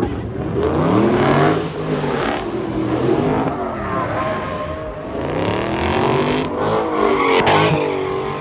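Dodge Charger V8 doing donuts, its engine revving up and falling back over and over, with tyres spinning and smoking on the asphalt.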